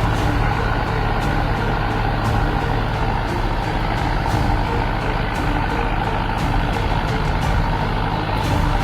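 Truck engine running steadily under a dense rumble, with faint clicks.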